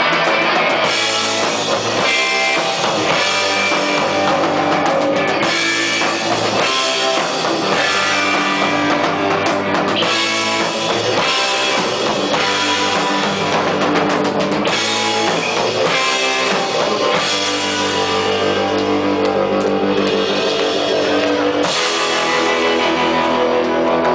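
Live rock band playing an instrumental passage: electric guitars over a drum kit, loud and steady.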